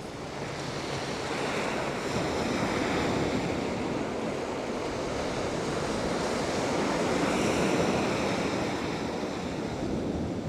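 Sea waves breaking and washing up a shingle beach, the surf noise swelling twice and easing off.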